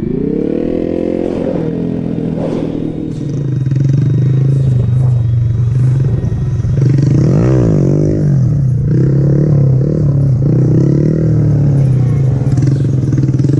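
Motorcycle engine running under way, its pitch rising in the first second and then holding steady. About halfway through, a second engine tone sweeps up and then down.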